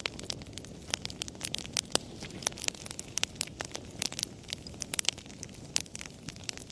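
Wood fire in a fireplace crackling: irregular sharp snaps of burning logs, several a second, over a steady low rumble of flames.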